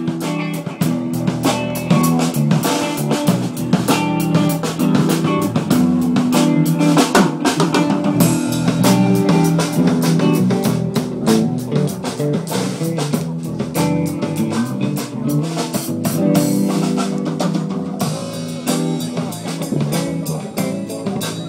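A live band playing, with the drum kit to the fore: a steady beat of snare and bass drum hits over sustained pitched instrument notes.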